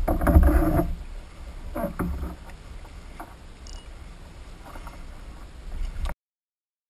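Wind buffeting the microphone on a kayak, with a loud jumble of handling noise in the first second and a few knocks against the hull. The sound cuts off abruptly about six seconds in.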